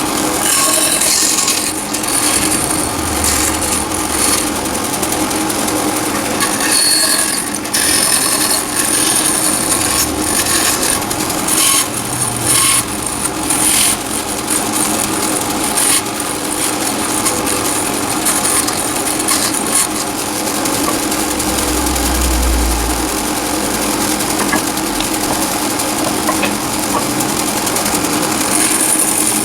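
Wood lathe running steadily, with a turning tool cutting and scraping the spinning wood in repeated short passes.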